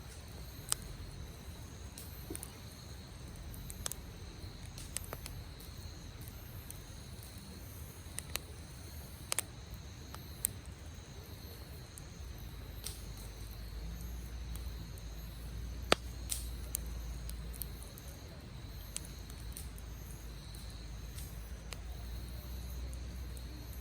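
Wood campfire crackling, with sharp irregular pops every second or so (the loudest about two-thirds of the way through) over a low, steady rumble. A steady high insect trill runs behind it.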